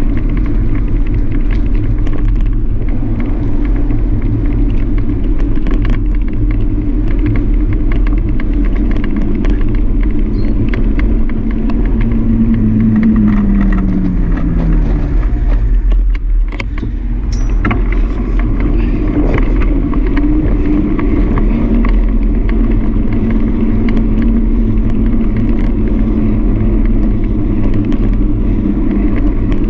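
Steady low rumble of road riding on a bike-mounted action camera, with a vehicle passing about twelve seconds in, its pitch sliding down as it goes by.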